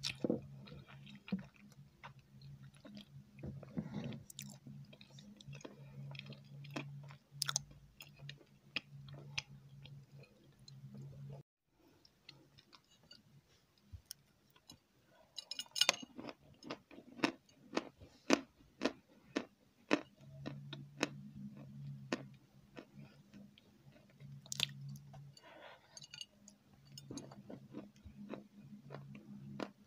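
Close-miked chewing and mouth sounds of a person eating dessert: wet clicks and smacks, thickest in the second half. A low steady hum runs underneath and drops out for several seconds in the middle.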